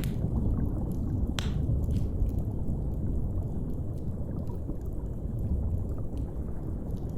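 Low, steady underwater ambience, a deep watery hum, with a fire crackling over it in a few sharp pops, the loudest about a second and a half in.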